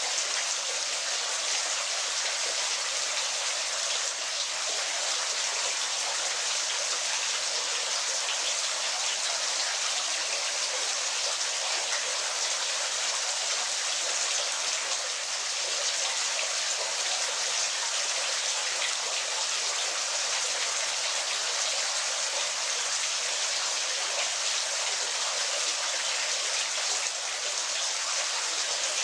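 Waterfall: a steady, unbroken hiss of falling and splashing water, bright and without any low rumble.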